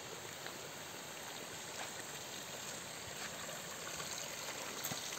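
Mountain water running steadily, an even trickling flow.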